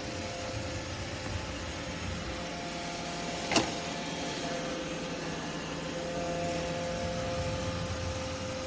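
iRobot Roomba Combo i5 robot vacuum running with a steady motor hum and whine, with one sharp click about three and a half seconds in.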